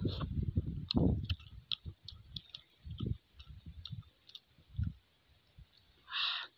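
Close-miked chewing of balut (fertilised duck egg): irregular wet mouth sounds with many small sharp lip and tongue clicks, heaviest in the first second. A brief hiss-like noise sounds about six seconds in.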